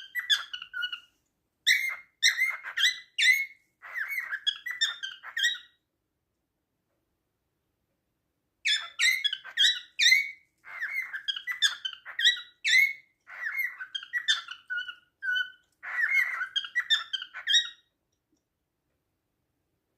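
Cockatiel song: runs of short chirping whistles and squeaky notes, one of about six seconds, a pause of about three seconds, then another of about nine seconds. It is a male's song to its mate.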